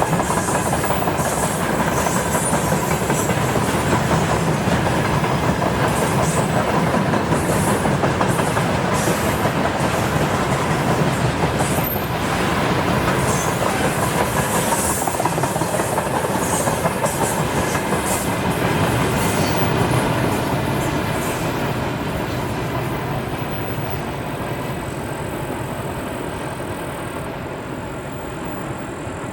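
Freight train wagons rolling past at speed, wheels clacking over the rail joints with a steady rumble, growing quieter over the last several seconds.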